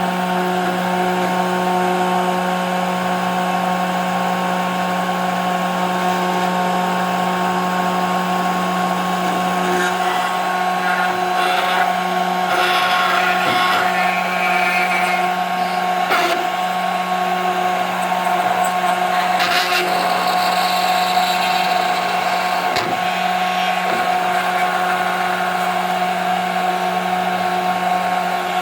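CNC router spindle running at a steady pitch while its bit cuts 5 mm plexiglass, with rougher, irregular cutting noise from about a third of the way in until about three quarters through.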